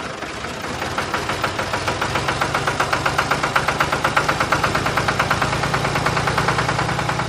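Small motor of a homemade model tractor running, with a rapid, even clatter of about ten knocks a second that builds up over the first second or so.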